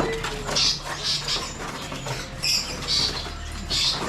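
Caged songbirds giving short, high-pitched chirps, about six scattered calls.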